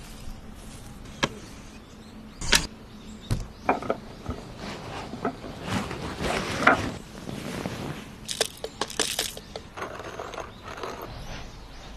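Irregular knocks, clicks and clatter of hard objects being handled, with a noisier stretch about halfway through and a quick run of clicks later on.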